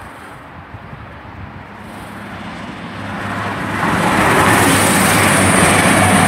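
CrossCountry Class 220 Voyager diesel multiple unit approaching and passing through the station without stopping. Its rumble builds from about two seconds in and is loud from about four seconds, with a steady low engine hum and a high-pitched whine.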